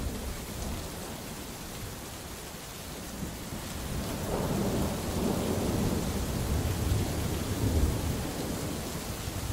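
Steady rain falling, with a rolling thunder rumble that builds from about four seconds in and stays louder through the end.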